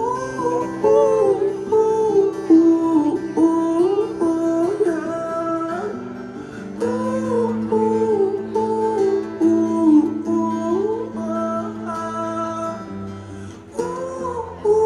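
Live acoustic guitar playing a song's opening through a concert sound system, with a voice singing wordlessly over it.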